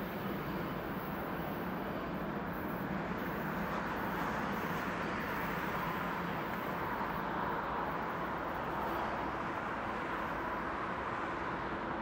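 Steady rolling noise of Rhaetian Railway metre-gauge trains moving through the station at a distance: a red passenger train pulling away while a freight train with container wagons runs past behind it.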